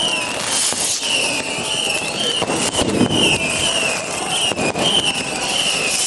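Fireworks going off in a dense run of crackles and pops, with a high whistle that wavers up and down about twice a second.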